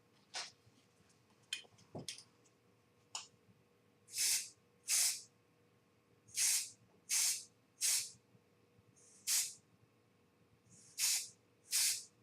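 Aerosol spray paint can sprayed in short bursts, about eight separate hisses over eight seconds, with a few light clicks before them.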